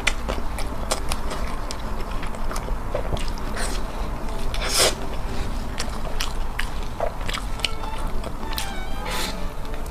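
Close-miked eating: a person biting and chewing food, heard as many short, irregular mouth clicks, with a louder one about five seconds in and another near the end.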